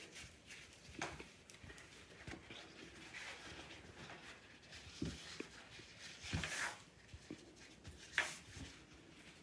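Paper towels being folded by hand: a few soft paper rustles and light taps on the table, scattered and quiet.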